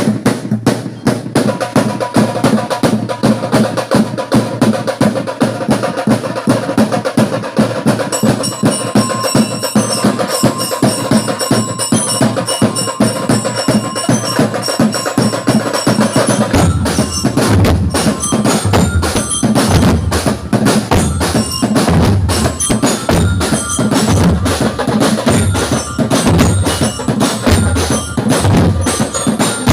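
Percussion music: drums keep a steady rhythmic beat, with high ringing bell-like mallet notes. The bell notes come in about eight seconds in, and a bass drum joins about halfway through.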